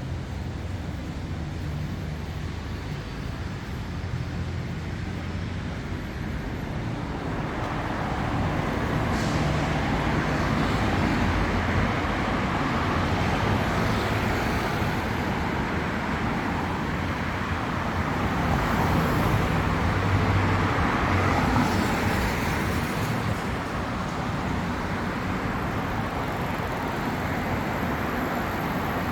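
Night road traffic on a city street: engines running steadily, with vehicles passing and their tyre noise swelling about a quarter of the way in, loudest twice around the middle before easing off.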